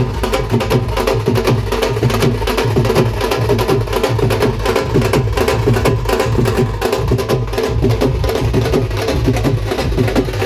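Fast, continuous drumming: dense rapid strokes with a woody, clacking percussion over them.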